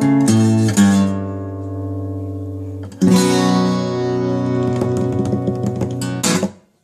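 Acoustic guitar in standard tuning with a capo at the second fret: a few picked notes, then a strummed chord left to ring and fade. A second chord is struck about three seconds in and rings. A last quick strum near the end is damped at once, ending the tune.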